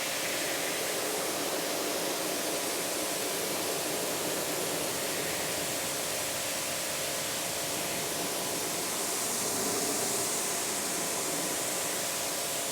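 Pressure washer spraying a steady jet of water over a car's painted panel, rinsing off water-spot remover, with the pump's steady hum under the hiss. It starts at the beginning and cuts off just after the end.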